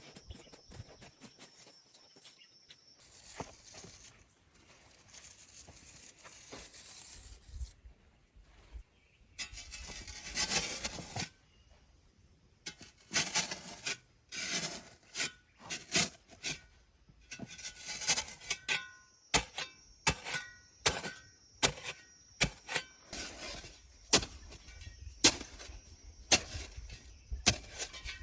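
Hand-tool work: scraping followed by irregular sharp knocks that grow more frequent and louder about ten seconds in. A steady high-pitched tone runs under it at the start and again in the second half.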